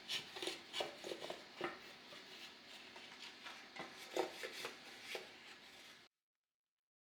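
Faint light taps, clicks and rubbing of kitchen utensils being handled, cutting off to dead silence about six seconds in.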